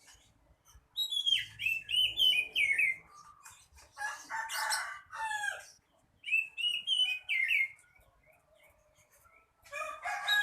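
Oriental magpie-robin singing in short, varied phrases of whistles and harsher notes, with pauses between them and a longer pause before a final, lower phrase near the end.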